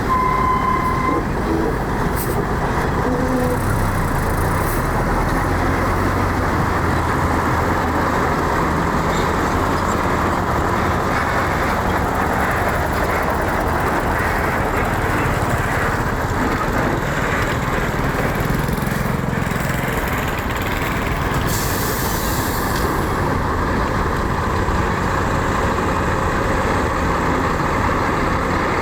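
Heavy diesel engines of earthmoving machinery running steadily, with a short beep in the first second.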